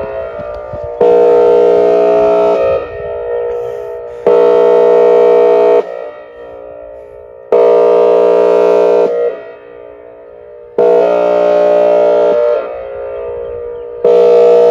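Outdoor tornado warning siren sounding its airhorn tone: a steady, loud horn chord blasting on and off, each blast about a second and a half long and repeating roughly every three seconds, with echo trailing off in the gaps.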